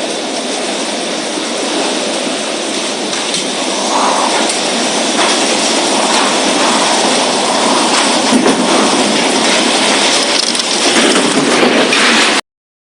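Loud, steady roar of a tropical storm: strong wind driving heavy rain. It cuts off suddenly near the end.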